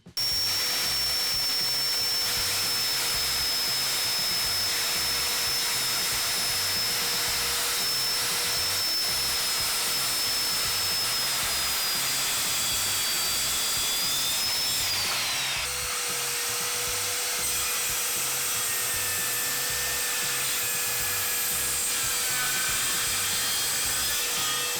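Circular saw cutting through a thick softwood scaffolding board: a steady, loud cutting noise with a high whine from the motor. Past halfway the whine sags and drops as the blade loads in the thick board, then the cut carries on.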